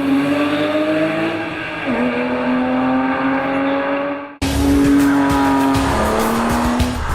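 Sports car engine accelerating hard, its pitch rising steadily, dropping at an upshift about two seconds in, then climbing again. An abrupt cut a little past the middle leads into another stretch of the engine running hard at high revs.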